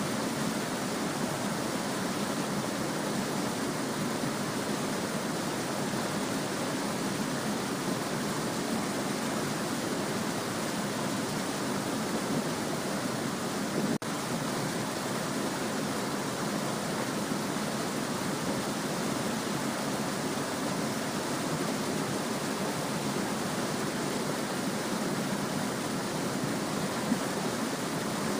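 A small stream babbling and flowing steadily, an even rush of water with no birds or other sounds over it. One faint click about halfway through.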